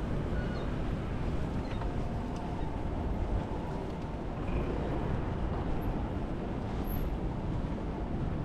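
Wind buffeting the microphone, a steady low rumble, with faint city street ambience underneath.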